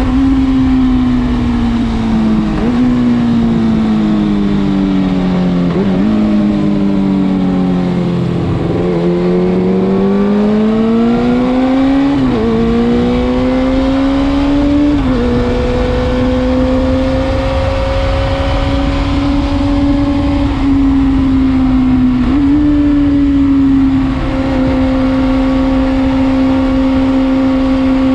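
Kawasaki Balius II 250 cc inline-four with an RPM New 4-in-2-in-1 exhaust, heard while riding. The revs fall as it slows, jumping up twice on downshifts. It then picks up speed and settles into a steady cruise.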